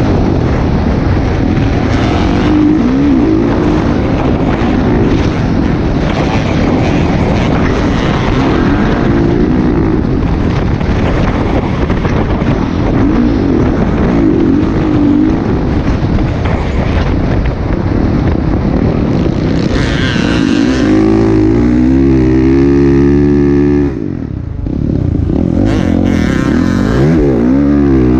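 Motocross bike engines running and revving. About twenty seconds in, one engine holds a high steady rev for a few seconds, then cuts off briefly before revving again with a wavering pitch near the end.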